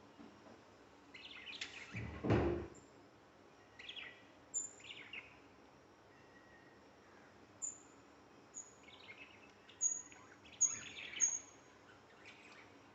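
Budgerigars chirping in short, high calls scattered through, with a dull bump a little over two seconds in as the loudest sound.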